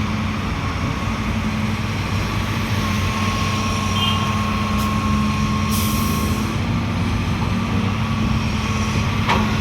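Heavy diesel engine running steadily at a constant pitch, with a faint whine partway through and a short hiss about six seconds in.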